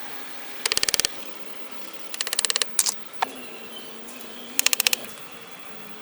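Rapid mechanical clicking in three short bursts of about ten clicks each, with a couple of single clicks between them, like a ratcheting mechanism being worked.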